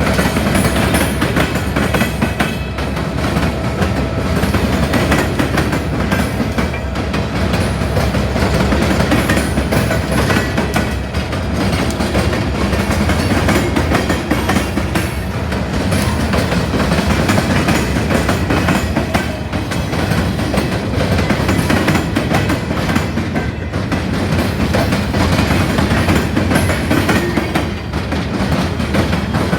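Freight cars of a coal train rolling past, a steady rumble with wheels clicking over the rail joints.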